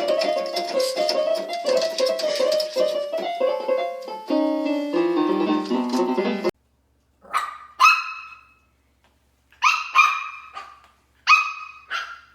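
Piano-led music that cuts off suddenly about six and a half seconds in, followed by a dog barking about six times in pairs.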